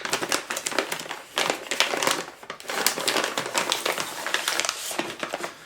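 Bit-O-Honey candy packaging crinkling and rustling as it is handled and opened, in many irregular crackles.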